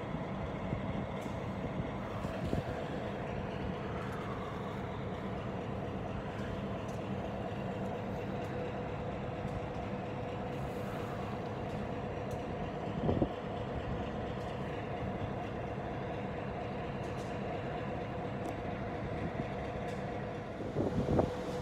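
A train running, with a steady rumble and a steady hum. There is one thud about thirteen seconds in and a few more thuds near the end.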